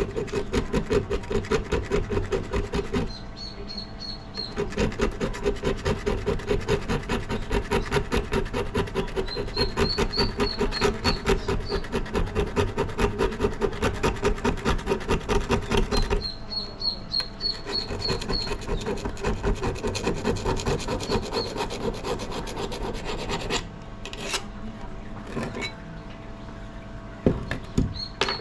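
Rusted axe head being rubbed down by hand in rapid back-and-forth strokes to clear the rust, a steady rasping rub with a couple of brief pauses. It eases off near the end, where a couple of sharp knocks sound.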